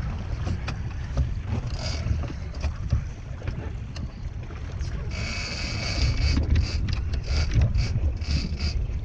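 Wind buffeting the microphone over the rumble of a boat at sea. From about five seconds in a high-pitched buzz comes and goes in short pulses.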